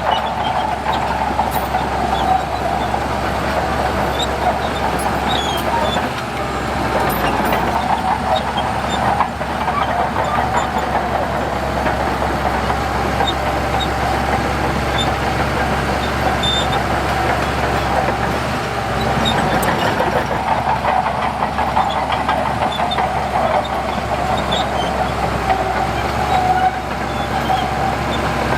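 Heavy diesel earthmoving machinery running steadily, a deep engine rumble with a constant whine above it.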